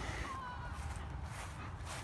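Outdoor background with a low, uneven wind rumble on the microphone and a faint short whistle-like tone about half a second in.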